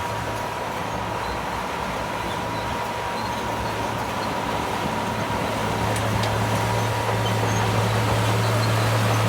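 Heavy diesel engine of earthmoving machinery running steadily with a low drone, growing slightly louder toward the end.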